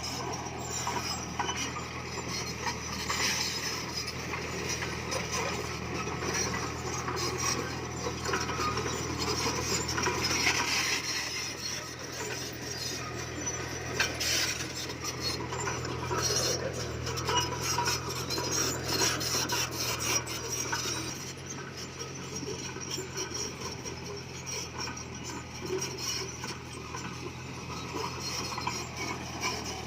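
Komatsu D20P crawler bulldozer at work: a steady diesel engine hum under the clanking and scraping of its steel tracks and the stone it pushes. The engine note drops about two-thirds of the way through.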